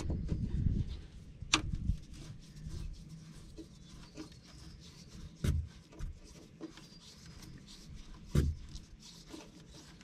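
Hand tool scraping and rubbing at spray foam insulation, with a few sharp knocks spread through it.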